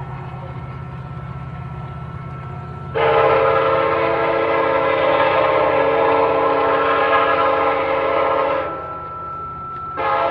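Train running with a steady low rumble, then its horn sounds one long blast of nearly six seconds starting about three seconds in, and sounds again just before the end.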